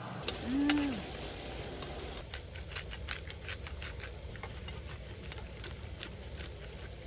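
Irregular light clicks and crackles, several a second, over a low steady background, with a short rising-and-falling hum about half a second in.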